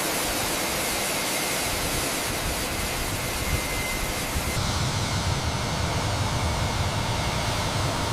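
Steady jet-engine and airflow noise of a business jet in flight, heard from inside the cabin: an even rushing hiss over a low rumble, with the rumble growing a little stronger and the top hiss thinning about halfway through.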